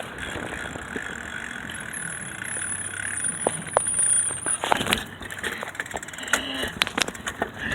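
Bicycle rolling over a brick sidewalk, with a steady rolling noise and scattered clicks and rattles that grow more frequent from the middle on. A faint high-pitched squeal wavers through the middle for a few seconds.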